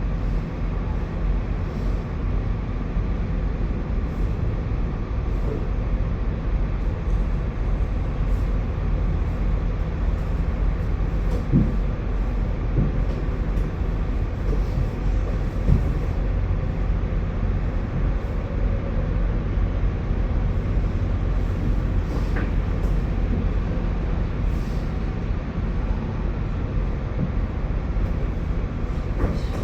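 Steady low rumble of an idling diesel truck engine, with a few faint knocks partway through.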